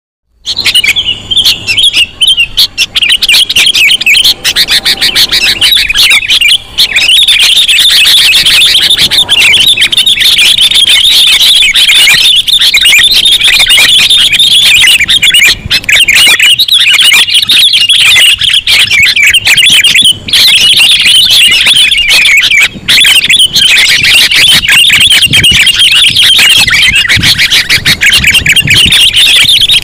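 Sooty-headed bulbul calls played loudly as a bird-trapping lure: a dense, unbroken stream of rapid chirps and chatter.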